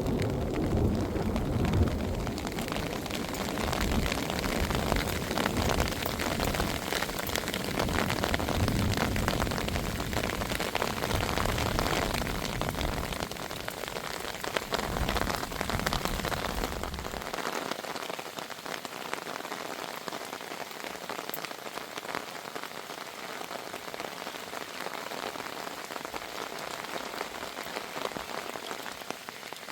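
Heavy rain falling steadily on a surface, with a low thunder rumble that dies away a little over halfway through.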